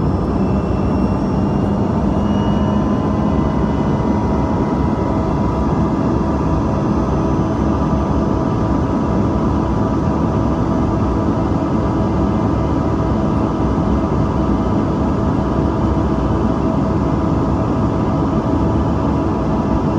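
Steady cabin noise of a Bombardier CRJ-200's rear-mounted General Electric CF34 turbofan engines under power, a loud even rush with a low hum and faint steady whine tones.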